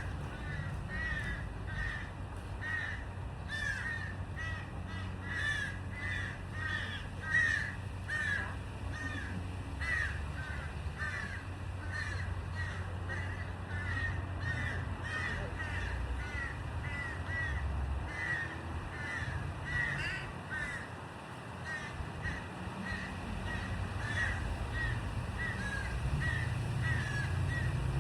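A group of birds calling over and over, several short calls a second, with a low steady rumble underneath.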